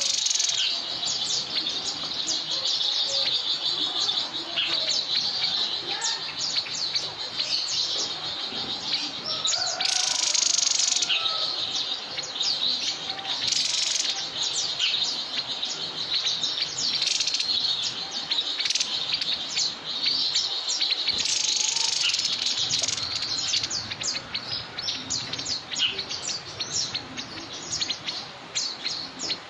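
Small songbird, the bird sold in Indonesia as 'burung sniper', chirping rapidly and without a break in a dense run of short high chirps. It is briefly louder about ten seconds in and again near fourteen seconds.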